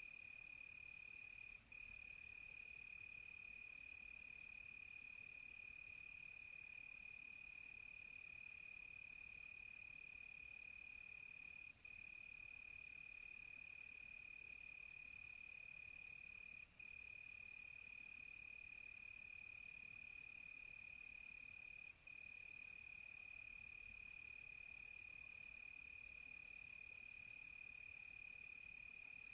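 Crickets singing: one faint, unbroken high trill that drops out briefly a few times, over a thinner, higher insect hiss.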